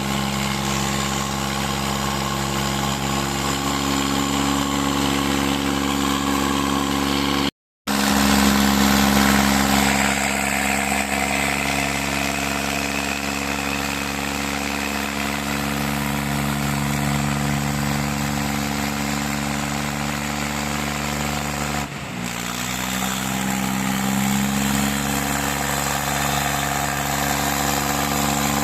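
Tractor diesel engines running steadily under load, a pulling drone. The sound cuts out completely for a moment about a quarter of the way in. About two-thirds through, the engine note dips sharply, then climbs back up.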